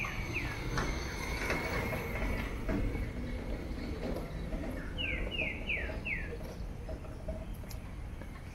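A bird calling with short, falling whistled notes, two near the start and a quick run of four about five seconds in, over a steady low background rumble.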